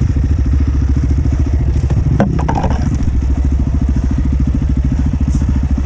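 Dirt bike's engine running at low, steady revs with an even pulsing beat, with a few sharp knocks a little over two seconds in.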